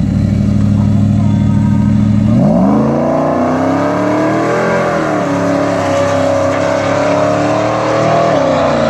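Whipple 3.4-supercharged truck engine running at a steady idle, then about two seconds in the revs climb quickly and are held up at a higher, steady pitch, dipping briefly near the end.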